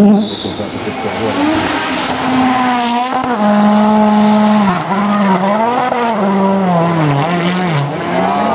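A rally car's engine at high revs as the car runs through a stage, over a rush of hiss in the first few seconds. The engine note holds high for a while, then dips and climbs again several times as the driver lifts, shifts and gets back on the throttle.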